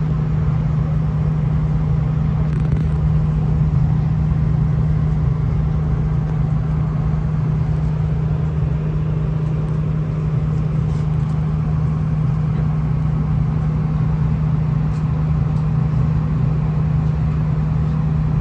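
V/Line VLocity diesel railcar running, a steady low drone with an even rumble underneath.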